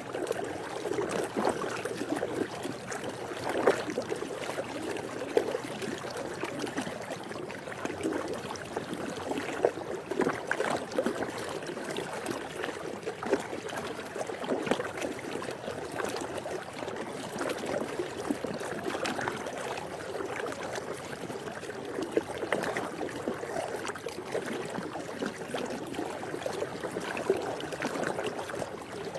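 Swimming pool water sloshing and splashing lightly: a continuous watery wash with many small irregular splashes.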